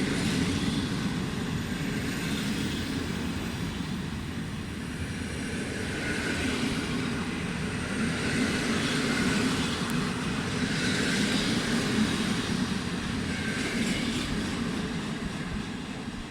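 Passenger train hauled by an EP09 electric locomotive pulling out of the station: a steady rumble of wheels on the rails that swells and eases a few times.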